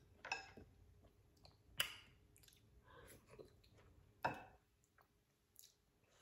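Soft close-up chewing of food with small mouth clicks, and a few short, sharper sounds about half a second, two seconds and four seconds in.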